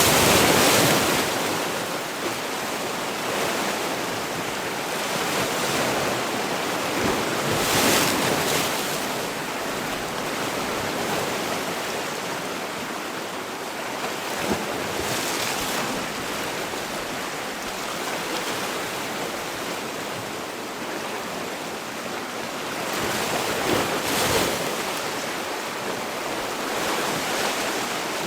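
Sea waves washing on the shore: a steady wash of surf, with louder breaking waves near the start, about eight seconds in, about fifteen seconds in and near the end.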